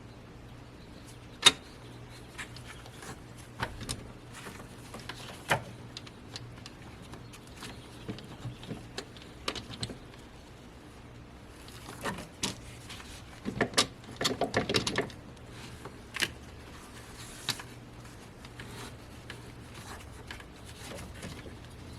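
Scattered metallic clicks and knocks of hand tools and parts being handled in a car's engine bay, with a quick run of clicks about fourteen seconds in, over a faint steady low hum.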